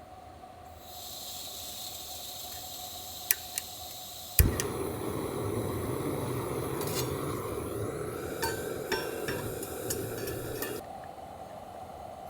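Thick wagyu steak sizzling on a hot iron griddle over an open wood fire. A sharp clack about four seconds in is followed by a louder, fuller sizzle with scattered pops and ticks, which cuts off suddenly near the end.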